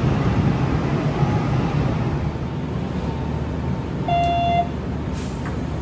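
Steady low rumble of an electric commuter train and its underground station, with a short electronic beep about four seconds in.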